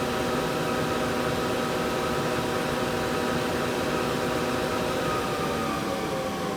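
Okuma VTM100 vertical turning center's spindle running at 500 RPM, a steady whine of several tones over mechanical hum. Near the end the pitch falls slightly as the spindle begins to slow.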